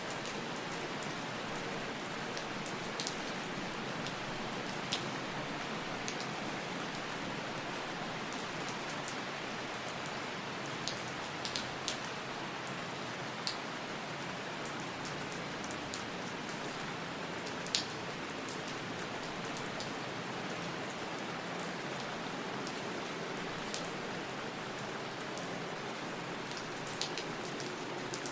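Steady rain falling, an even hiss with scattered sharp drips and taps of individual drops landing on a surface.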